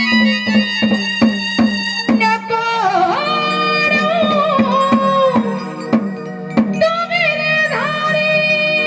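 Indian devotional folk music: evenly spaced drum strokes, about three a second, over a steady drone. About two and a half seconds in, a melodic line with sliding pitch bends comes in over them.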